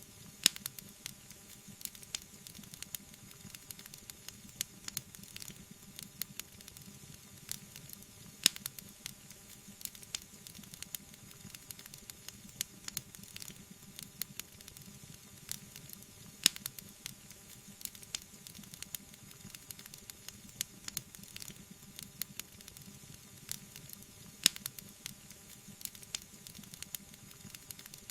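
Wood fire crackling: a steady soft hiss with many small irregular pops. A few louder, sharper pops stand out, about every eight seconds.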